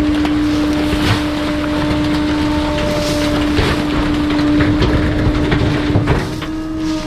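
A garbage truck crushing bulky trash. A steady, non-stop hum holds one pitch, with scattered cracks and crunches of material breaking over a rough mechanical rumble. The hum shifts slightly near the end.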